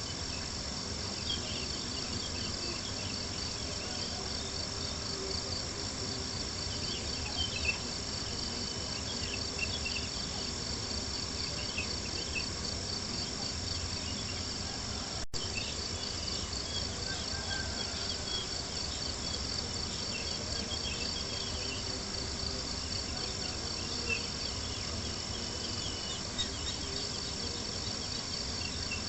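Crickets chirping steadily in a continuous night chorus, over a campfire crackling with occasional small pops. The whole bed cuts out for an instant about halfway through.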